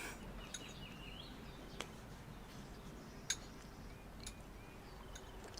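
Faint background ambience with small birds chirping now and then, and a couple of light clinks.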